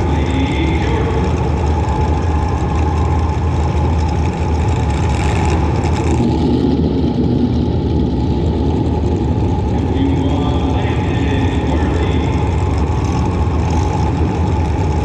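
Engine of a compact demolition derby car running under load, a loud steady rumble picked up by a camera mounted on the car.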